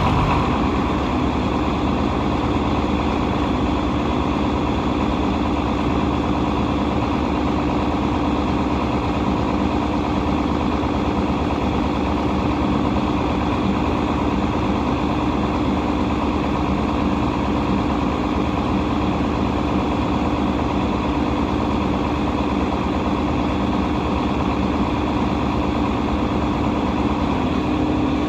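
Tractor's diesel engine running at a steady speed, with a dense, even machinery noise and a steady hum.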